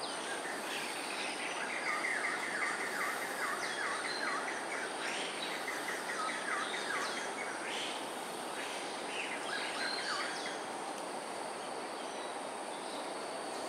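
Small birds calling over a steady background hiss: a long run of fast, repeated chattering notes in the first half, with a few higher calls around it, then a few shorter calls a little past the middle.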